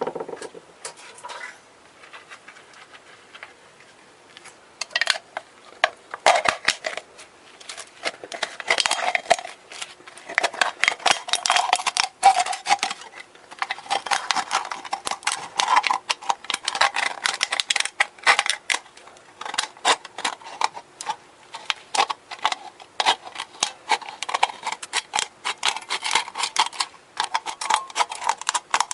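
Rapid, irregular metallic clicking and light rattling that picks up about five seconds in, over a faint steady hum.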